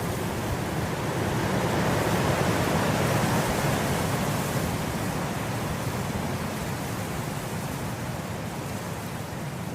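Wind blowing steadily through grass, a smooth rushing hiss that swells in a gust a couple of seconds in and then eases off.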